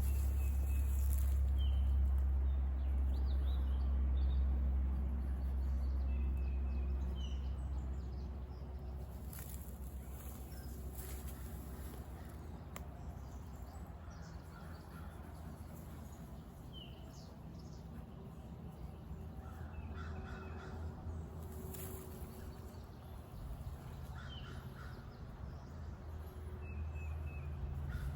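Birds calling outdoors, including a few crow-like caws in the second half, with scattered small chirps. A low rumble sits underneath and fades after about eight seconds.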